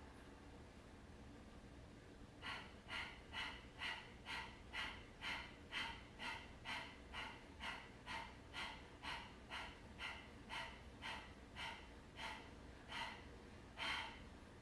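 Kapalabhati breathing: a rapid series of short, forceful nasal exhalations, about two a second, each pushed out by a snap of the abdomen. There are about two dozen, starting a couple of seconds in; the last one, near the end, is the strongest.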